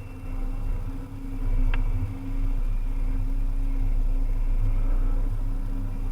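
Volvo EC300EL excavator's diesel engine running steadily as the machine works, getting louder about a second and a half in. A single short click comes a little under two seconds in.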